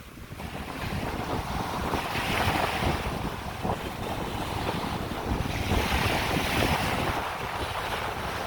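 Strong wind buffeting the microphone over the sound of surf on a beach, the hiss of the waves swelling twice.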